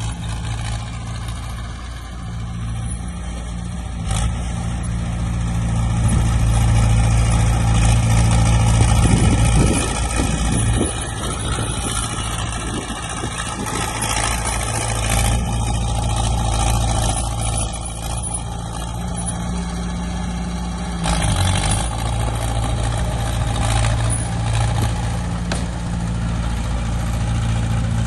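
Heavy diesel engines of earthmoving machines, dump trucks and a bulldozer, running steadily with a low drone. The sound swells for a few seconds partway through and its note shifts briefly near the three-quarter mark.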